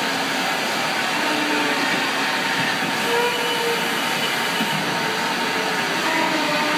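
Steady whirring hiss of running shop machinery, with faint short tones that come and go at different pitches.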